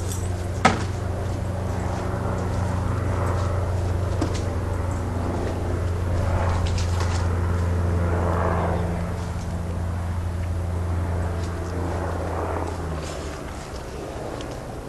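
A steady low engine hum, like a motor vehicle running, that drops away near the end. There is one sharp click about a second in.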